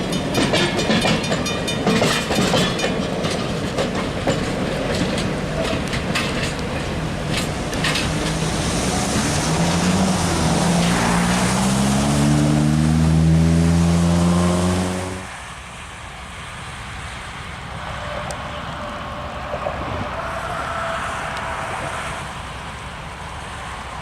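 Train rolling past with the clickety-clack of wheels over rail joints. A pitched engine tone then rises steadily until the sound cuts off abruptly about fifteen seconds in. After that there is only a quieter, steady outdoor hiss like wind.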